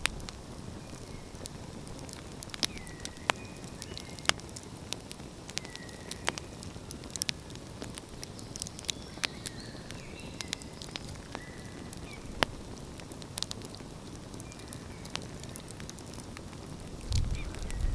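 Wood fire crackling, with sharp irregular pops over a steady low hiss. Birds call faintly now and then, and a low rumble rises near the end.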